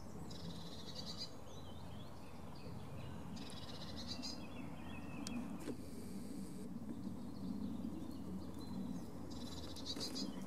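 Small songbird singing short trilled phrases, repeated several times a few seconds apart, over a steady low background rumble.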